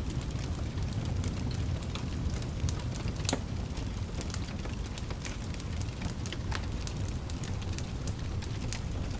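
Wood fire burning in a fireplace: a steady low rumble of flames with irregular sharp crackles and pops, one louder pop a little past three seconds in.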